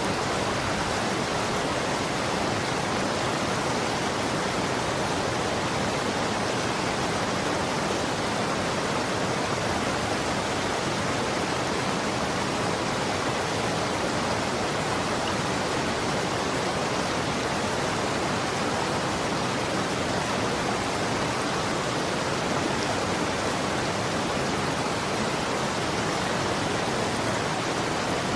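Running water flowing steadily, a constant even rush with no splashes or changes.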